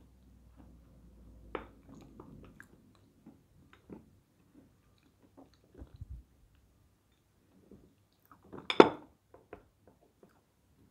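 Close-miked chewing of dry edible clay (peschanka): soft crunching and wet mouth clicks, with one louder, sharper crackle near the end.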